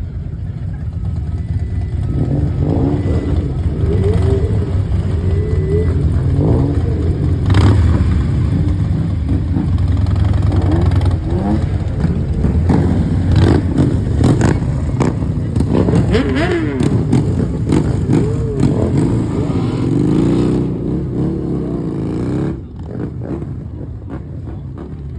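Sports car engines running and revving at a car meet, a steady low rumble with rising and falling engine pitch and scattered sharp cracks, easing off near the end.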